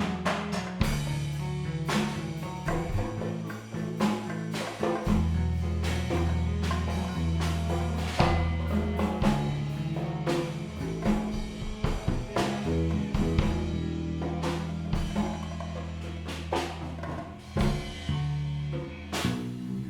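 Live band music: a drum kit playing a busy groove of snare and bass-drum strikes over sustained low bass notes.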